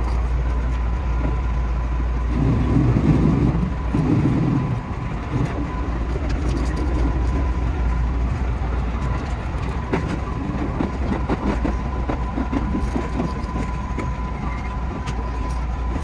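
Running noise heard inside the cab of a JR West 221 series electric train moving along the line: a steady low rumble with a thin steady tone and occasional clicks from the track. It grows louder about two to four seconds in.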